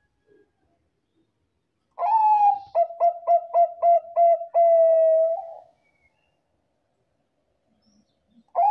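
Perkutut bangkok (Thai-bred zebra dove) cooing. One song starts about two seconds in: a longer opening note, a quick run of about six short notes, then a long held note. Another song begins near the end.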